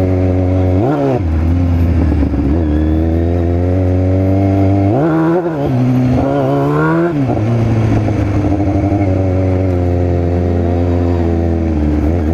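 Motorcycle engine running steadily, its pitch rising and falling briefly about a second in, then climbing twice between about five and seven seconds in before dropping back.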